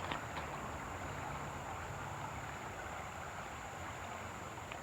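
Faint steady outdoor background noise: an even rush with a thin, steady high tone above it, and a couple of light clicks at the start.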